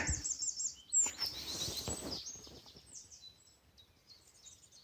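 Small birds chirping in short, high, repeated notes, thinning out after about three seconds, with a faint knock about a second in.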